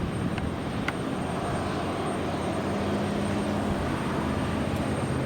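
Embraer 190 jet's twin CF34 turbofan engines at full takeoff power during the takeoff roll: a steady jet noise with a low hum, growing slightly louder.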